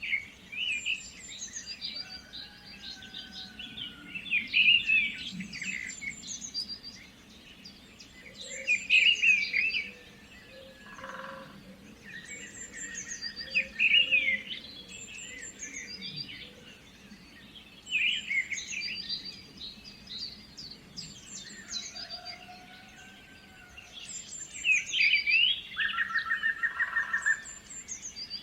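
Several songbirds singing and chirping in overlapping phrases, with a rapid trill twice.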